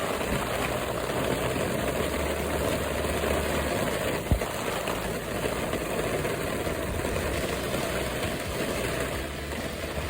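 An engine running steadily with a low hum, and a single sharp knock about four seconds in.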